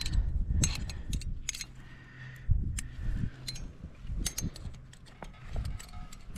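Metal climbing gear, carabiners and protection on a harness rack, clinking and jangling in a quick irregular series of sharp metallic clicks, over a low rumble of handling noise.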